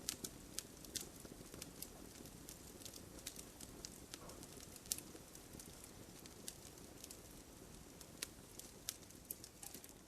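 Wood fire in a fireplace crackling: frequent irregular sharp pops and snaps over a soft, steady hiss.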